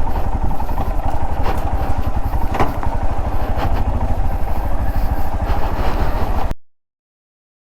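Motorcycle engine running at low speed with a rapid, even beat, with a few knocks and rattles from the bike on a rough off-road track. It cuts off abruptly near the end into silence.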